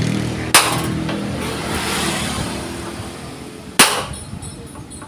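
Hammer striking thick steel plate, two sharp ringing blows about three seconds apart.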